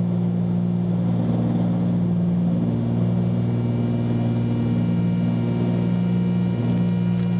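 Cabin drone of a 1974 Cessna 310Q's twin piston engines and propellers in flight: a steady low hum whose upper tones shift slightly a few times.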